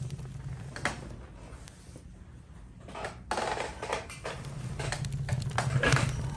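Campfire crackling: irregular snaps and pops over a low steady rumble, with a louder cluster of pops about six seconds in.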